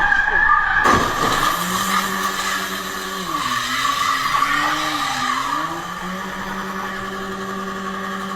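Car tyres squealing with an engine running, whose pitch dips and comes back up partway through. Two sharp knocks about a second apart come at the start.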